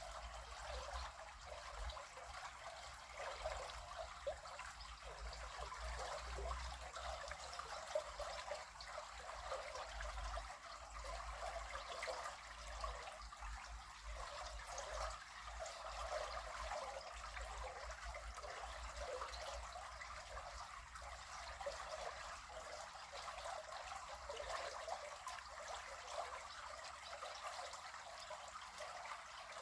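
River water flowing and trickling, a steady rushing sound with a fluctuating low rumble underneath.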